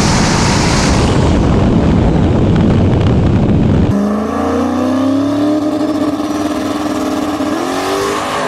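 Turbocharged drag race car's engine at full throttle, loud and harsh. About halfway it changes abruptly to a smoother, clearer engine note that slowly rises in pitch, with another step up near the end.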